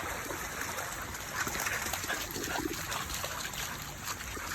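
Stream water trickling steadily, with light irregular splashing from a dog moving through the water.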